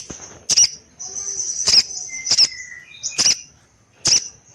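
Sogon bird calling: about six sharp, short high-pitched notes a little under a second apart, with a thin, high continuous twitter between the first few.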